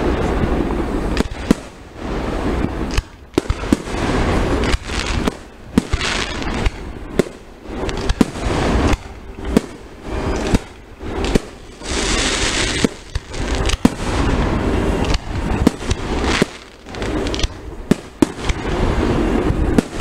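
Aerial fireworks display heard from close by: sharp bangs of shells bursting one after another, sometimes several a second, with crackling between them.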